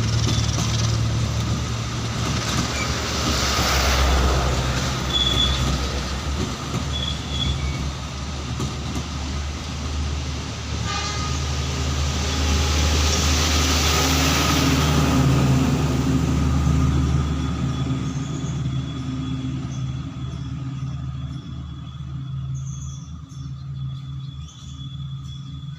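A train passing: a diesel locomotive's steady low drone under loud rolling wheel-and-rail noise that swells twice, then fades away near the end.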